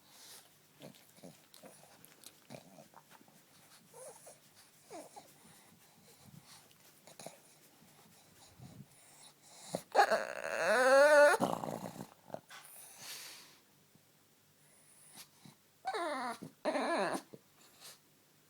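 A dog snorting and grunting in small, faint bursts, then giving a long, loud, wavering call about ten seconds in and a shorter call that falls in pitch near the end.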